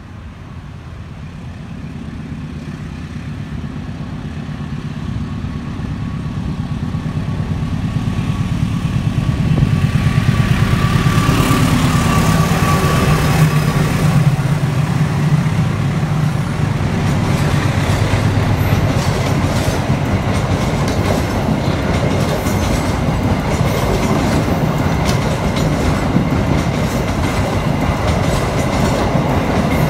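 KA Taksaka express passenger train approaching and passing at speed. It grows steadily louder over the first ten seconds or so, then its carriages roll by with a steady loud rumble and a rapid clickety-clack of wheels over the rail joints.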